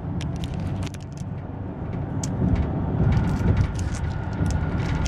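Low, steady rumble of a car cabin, with many short, sharp crinkles over it from a snack bar's plastic wrapper being torn open and handled.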